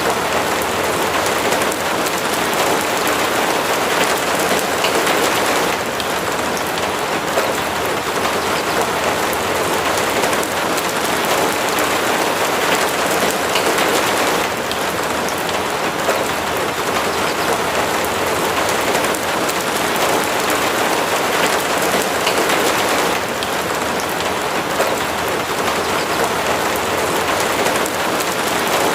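Steady rain falling, a dense even hiss full of small drop ticks that swells slightly and eases again every few seconds.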